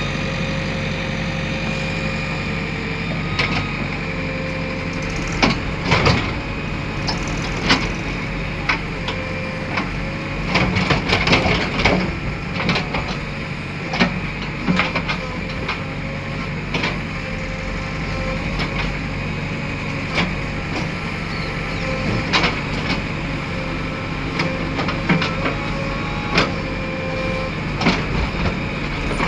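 JCB backhoe loader's diesel engine running steadily while working, with scattered sharp knocks and clanks, thickest about ten to twelve seconds in.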